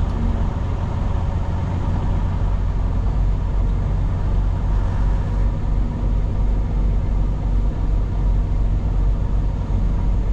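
Semi-truck's diesel engine running steadily at low speed with a deep, even rumble as the truck creeps around a yard.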